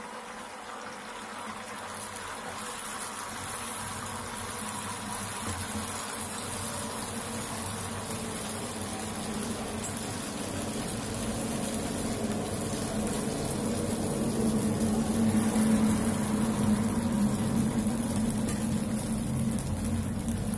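Malpua batter frying in hot ghee in a shallow pan: a steady sizzle and bubbling that grows gradually louder.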